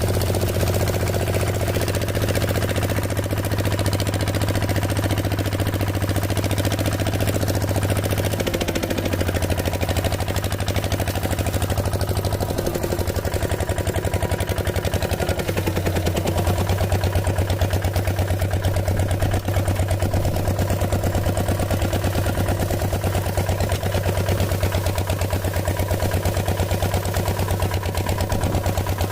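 Small engine running steadily with a rapid, even chugging beat, with a slight change in tone a couple of times.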